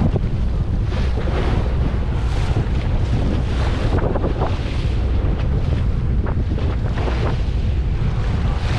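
Wind buffeting the microphone over the steady wash of the sea on a fishing boat, with a deep rumble underneath and a few short crackles.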